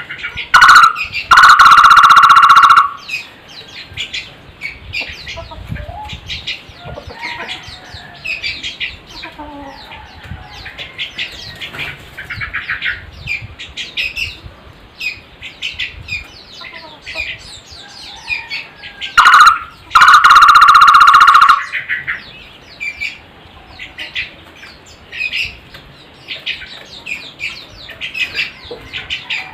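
A takur barbet giving loud, drawn-out calls held on one steady pitch, so loud they distort. There are two right at the start, the second lasting over a second, and two more about two-thirds of the way in. Between them come many short, high chirps of small birds.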